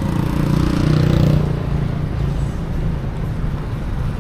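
A motor vehicle's engine passing close by, loudest about a second in and then fading, over steady street traffic rumble.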